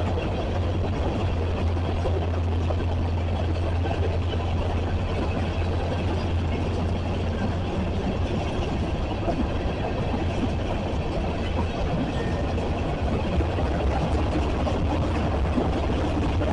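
A train passing, with a steady rumble under a constant low hum.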